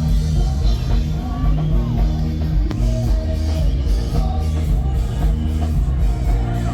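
Live band playing a song with a singer, drums, bass and guitar.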